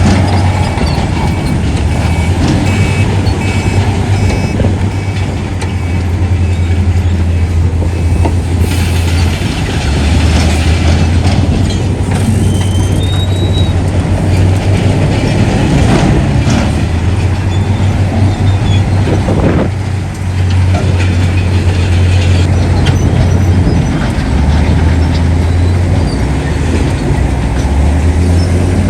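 Heavy diesel earthmoving machinery running under load, with a loud steady low engine drone. Brief thin, high squeals come through a few times.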